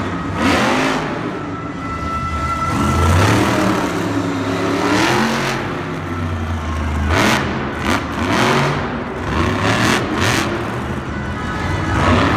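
Monster truck engines, supercharged V8s, revving hard again and again, the pitch climbing and dropping several times.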